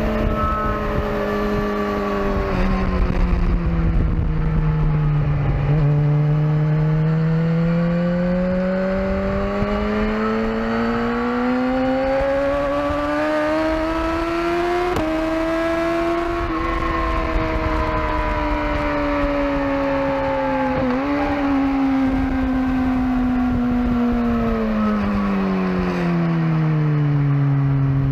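BMW S1000RR inline-four sport-bike engine heard on board at speed over wind rush. Its pitch drops in two steps early on, rises steadily for about ten seconds, then falls slowly as the bike slows.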